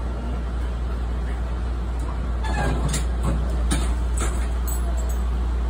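Inside an electric train's cab, a steady low hum and rumble as the train runs slowly. In the second half come a run of short hisses and clicks.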